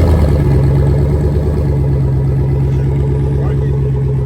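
Pickup truck engine idling steadily right after a cold start, having sat unstarted for about two months.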